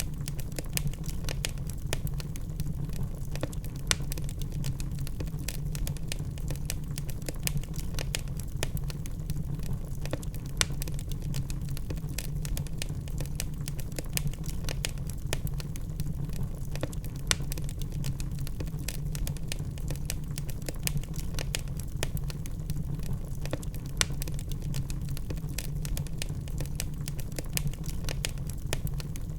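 Wood logs burning in a fireplace: a steady low rumble with frequent, irregular sharp crackles and pops.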